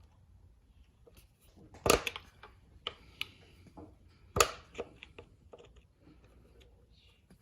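Hand tools knocking and clinking on the outboard's metal while stuck screws are worked, with two sharp loud knocks about two and four and a half seconds in and lighter ticks and clicks between.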